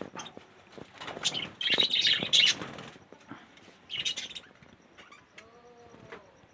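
Budgies chirping and chattering in short bursts, loudest about two seconds in and again around four seconds, with scattered clicks between.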